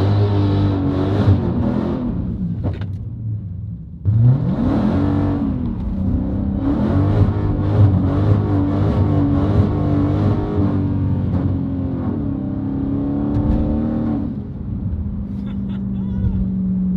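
Dodge Challenger Hellcat's supercharged V8 revving hard. The revs climb, fall away briefly, then climb again about four seconds in and bounce up and down at high revs for some ten seconds, as in a slide with the rear wheels spinning on a wet road. Near the end the revs drop to a lower, steady note.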